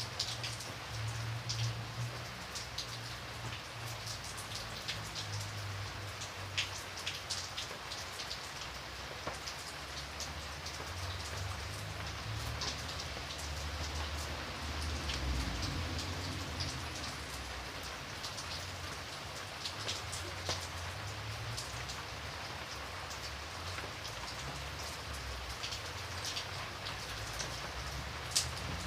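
Steady rain falling, with distinct drops ticking on a surface over an even hiss and a faint low rumble underneath.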